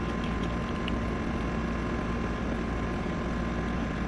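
A steady, even mechanical hum with a constant low drone and a faint steady tone, with no distinct knocks or clicks.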